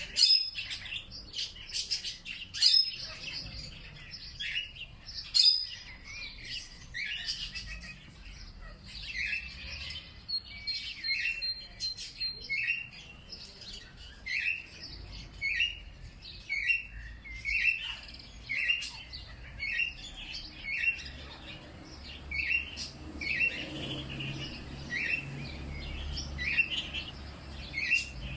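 Songbirds chirping. Later on, one bird repeats a short chirp about once a second, with a brief thin whistle among them.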